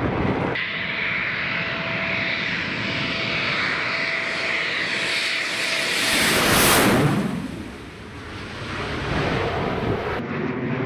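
A Eurofighter Typhoon's twin EJ200 jet engines passing by. The sound builds with a high whine to its loudest about seven seconds in, then drops in pitch and fades as the jet goes past.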